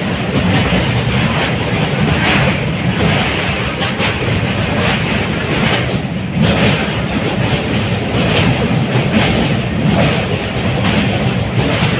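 Train running on its rails: a steady loud rumble with repeated knocks from the wheels, a second or two apart.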